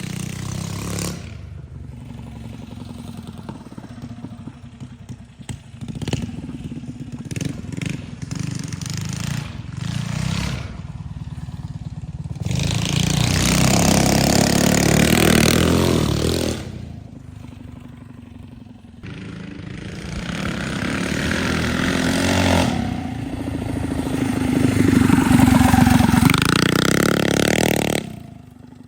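Extremely loud mini bike engine running with short blips of throttle, then revved hard twice for several seconds each. The second run dips and then rises in pitch before cutting back.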